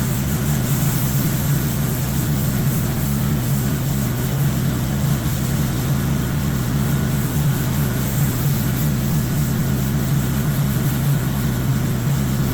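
Pressure washer engine running steadily with a constant low hum.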